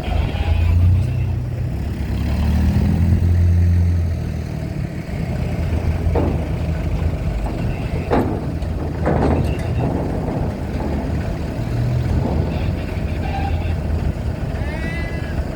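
Heavy vehicle engines running with a steady low rumble that swells about one and three seconds in, with a few short sharp sounds about six to nine seconds in.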